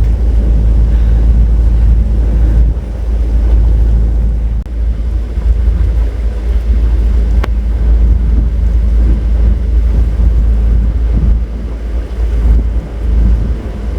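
Wind buffeting the microphone in heavy gusts over a narrowboat's engine running steadily, out on open water. A single sharp click about halfway through.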